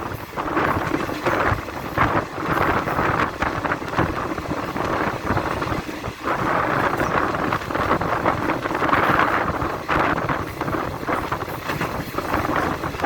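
Passenger train running: a continuous rushing rumble that swells and dips, with wind buffeting the microphone.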